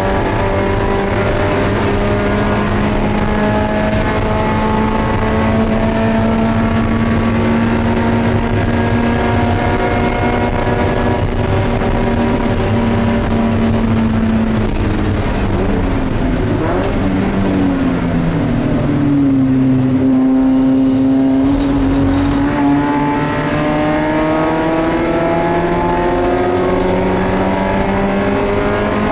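Spec Miata race car's four-cylinder engine, heard from inside the cabin, held at high revs at first. About halfway through its pitch drops in steps as it shifts down, then holds lower for a few seconds, and climbs again steadily under acceleration through the last third.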